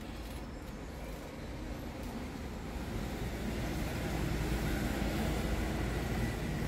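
Steady low rumble inside a Toyota Rush's cabin, from the car's idling engine and street traffic outside. It grows a little louder about three seconds in.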